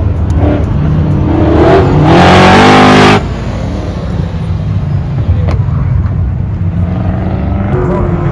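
Car engine at an autocross run, revving up with a loud rushing noise over it from about two to three seconds in. The rushing cuts off sharply and the engine settles to a steadier, lower drone.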